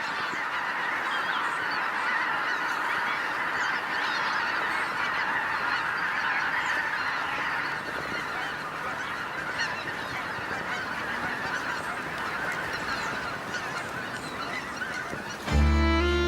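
A large flock of geese honking together in a dense, continuous chorus. Music comes in loudly near the end.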